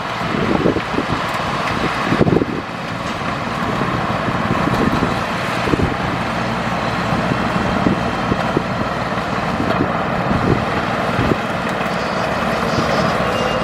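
Heavy earthmoving machine's diesel engine running steadily, with irregular low thumps over it.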